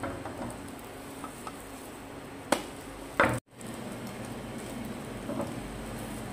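French toast frying in butter in a nonstick pan with a low, steady sizzle. A silicone spatula knocks against the pan twice, about two and a half and three seconds in, and the sound drops out for an instant just after the second knock.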